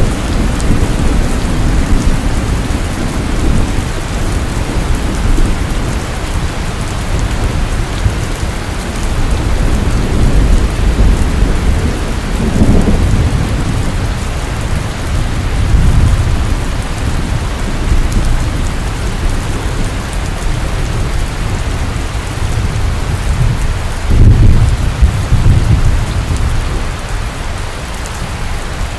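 Steady heavy rain falling, with low rolls of thunder rumbling through it, swelling about halfway through and most strongly a little before the end.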